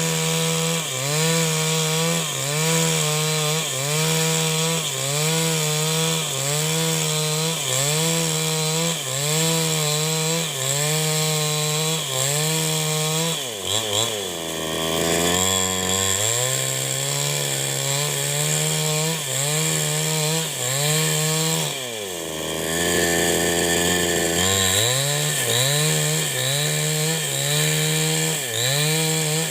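New West 788 two-stroke chainsaw running at high revs under load as it rips along a log, its pitch swaying in a steady rhythm about once a second. Twice, about halfway through and again about three-quarters through, the revs drop low for a second or two before climbing back.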